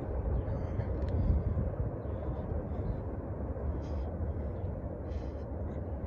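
Low, steady rumble of a freight train receding into the distance, with a few brief faint high chirps over it.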